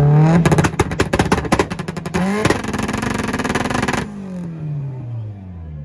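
A Mitsubishi's engine is revved up and held against a two-step rev limiter, stuttering and crackling rapidly for about four seconds. The revs then cut and fall away, with one more quick blip of the throttle near the end.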